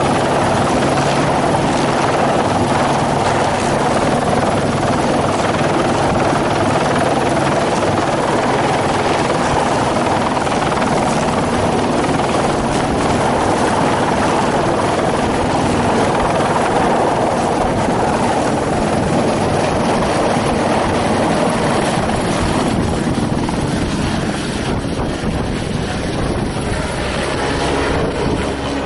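Helicopter running steadily: a continuous rotor and engine noise with a low, steady hum, easing off slightly in the last few seconds.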